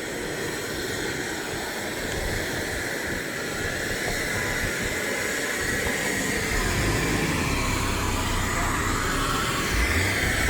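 A steady hiss of outdoor noise. A vehicle's engine comes in low partway through and passes near the end.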